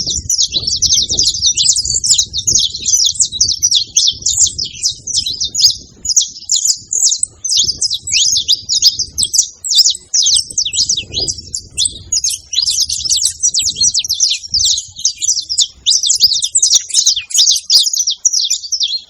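Saffron finch (canário-da-terra) singing: a long, unbroken run of fast, high chirping notes.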